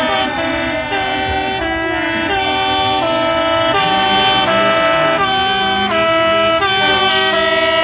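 Several truck air horns blowing together, long overlapping held notes that change pitch in steps, without a break.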